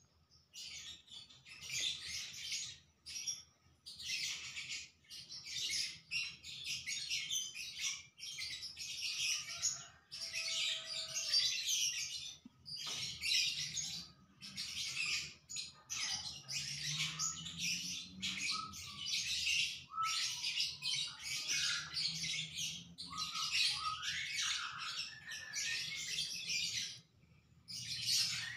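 Small birds chirping and twittering in dense bursts of about a second each, with short pauses between.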